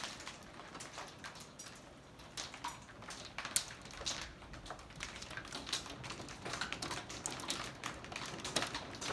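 Tiny hailstones striking, an irregular patter of sharp ticks and clicks.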